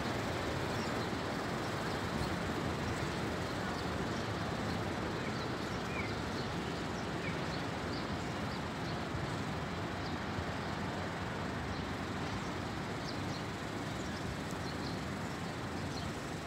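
Steady outdoor background noise with faint, short, high bird chirps now and then.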